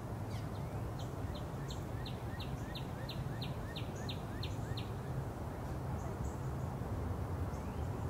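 A songbird calls a series of about a dozen short, high, clear notes, evenly spaced at about three a second, stopping about five seconds in. A steady low background rumble runs underneath.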